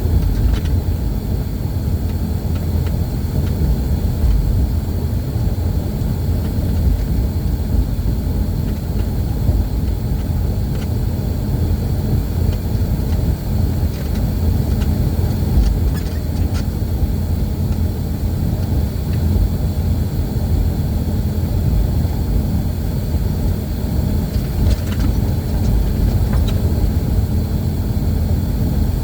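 Steady low engine and road rumble from inside a moving vehicle, with a few faint clicks.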